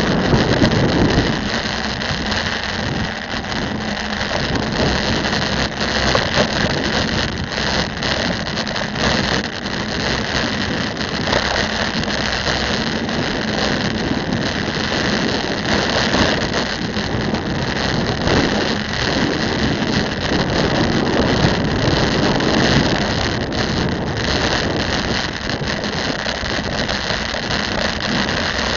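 Steady wind noise on the microphone and road noise from a bicycle riding through city traffic, with passing vehicle engines mixed in.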